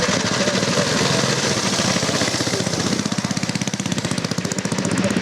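Vintage motorcycle engine running loudly with rapid, even firing pulses; the revs ease off about three seconds in and then pick up again.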